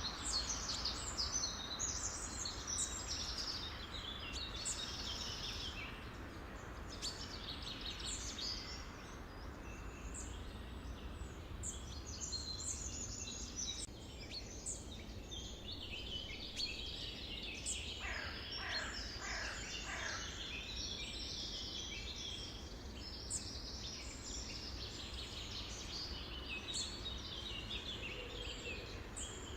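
A chorus of many songbirds chirping and calling at once over a steady low background hiss. About two-thirds of the way through, a run of falling notes sweeps down through the chorus.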